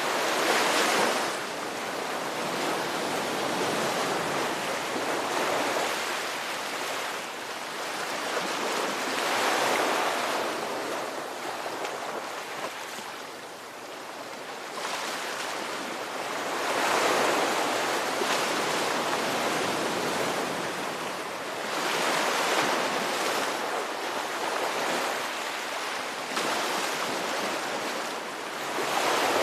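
Ocean surf breaking and washing in, rising and falling in a swell every few seconds.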